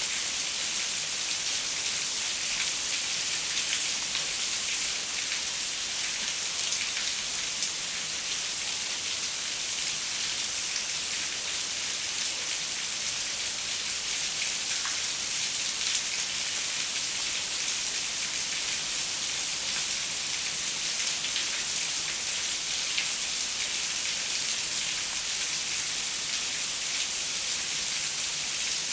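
Steady rain hissing and pattering on a window pane, with countless small drop ticks and no let-up.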